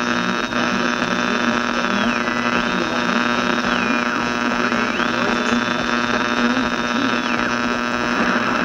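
Old radio static with a strong, steady mains hum under a crackling hiss. A thin high whistle over it drops in pitch and returns, three times.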